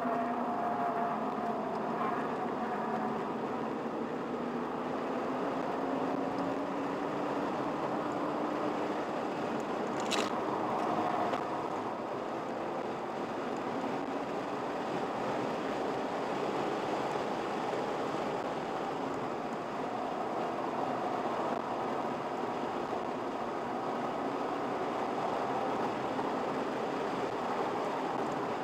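Car engine running and tyre and wind noise heard from inside the cabin while lapping a race track, the engine note slowly rising and falling with speed. A sharp click about ten seconds in.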